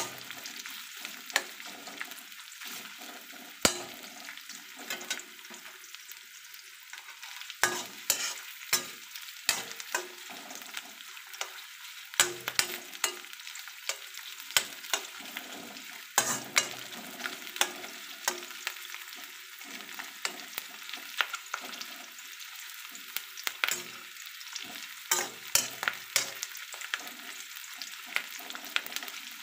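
Large onion pieces sizzling in hot oil in a steel kadai, with frequent sharp clicks and scrapes as a spatula stirs them against the pan.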